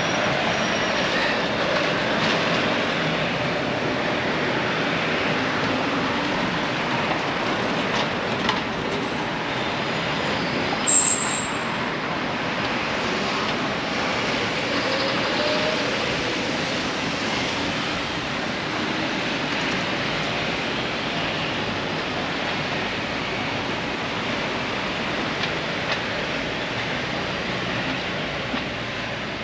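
Steady urban background noise, a continuous rumble and hiss, with a brief high squeak about eleven seconds in.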